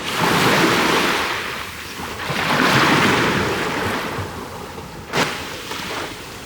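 Ocean surf breaking on a beach, two waves that each swell and wash out. There is a short sharp knock about five seconds in.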